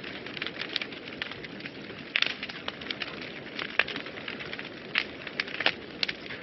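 Wood fire burning in a fireplace: a steady low rush of flame with many irregular sharp crackles and pops.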